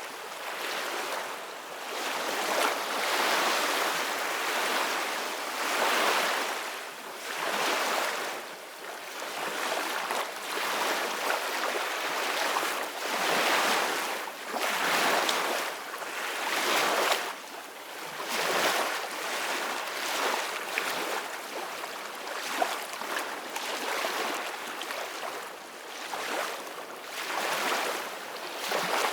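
Sea waves washing and breaking in a continuous rush that swells and ebbs every second or two.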